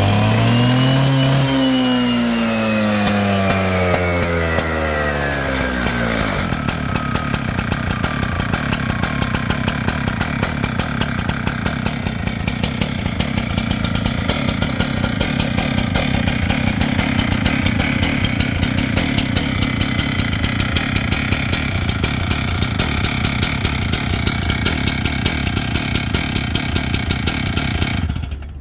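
Stihl TS700 two-stroke cut-off saw engine revved high at first, the revs winding down over about five seconds, then idling with a steady rapid beat. It cuts off abruptly near the end.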